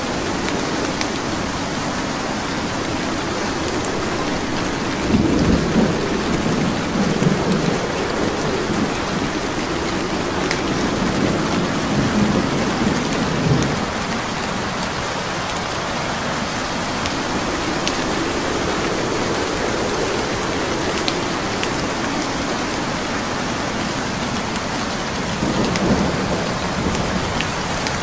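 Steady rain hissing, with faint sharp crackles of a wood fire burning in a fireplace. Low rumbling swells come in about five seconds in, again around twelve seconds, and near the end.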